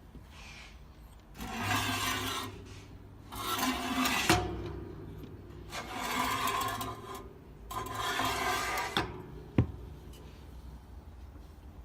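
Four rubbing, scraping strokes, each a second or so long, with a sharp click near the end of the second stroke and another sharp click shortly after the last.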